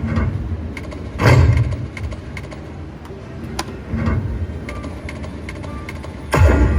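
Railroad Riches video slot machine playing its spin music and sound effects as the reels turn and stop, with a few heavier hits about a second in, near four seconds and near the end.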